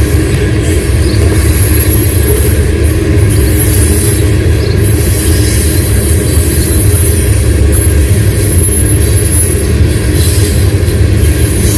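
Loaded ethanol tank cars of a freight train rolling past close by, with a steady loud rumble and thin high wheel squeal that comes and goes.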